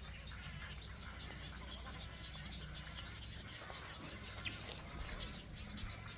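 Nesting colony of wading birds such as egrets and herons, many birds calling at once in overlapping short squawks, bleats and chatter.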